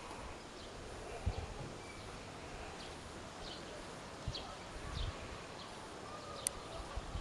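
Quiet outdoor ambience with faint, scattered bird chirps, a few soft low thumps and one sharp click about six and a half seconds in.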